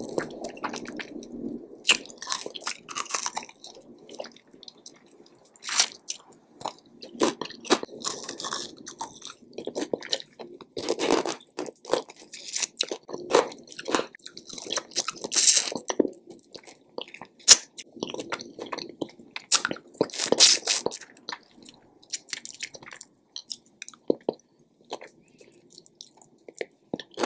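A person biting and chewing fried bone-in chicken wings, with irregular crisp crunches throughout and gnawing on the wing bone near the end.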